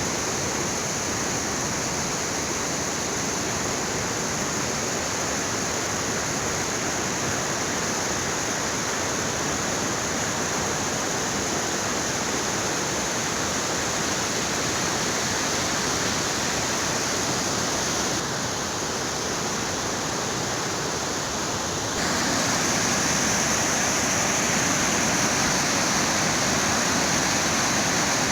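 Fast mountain river water rushing steadily. It dips slightly about two-thirds of the way through, then comes back a little louder.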